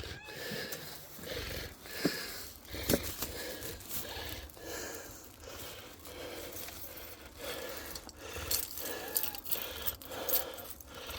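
Rustling, scraping and clinking of handling noise, with two sharp knocks about two and three seconds in.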